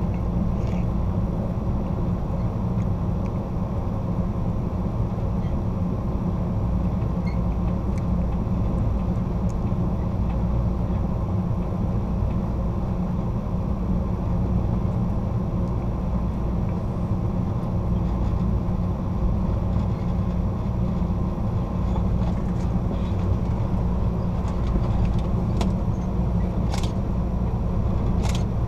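Steady rumble of a moving Amtrak Superliner passenger car, wheels running on the rails, heard from inside the rear of the train, with a few faint clicks near the end.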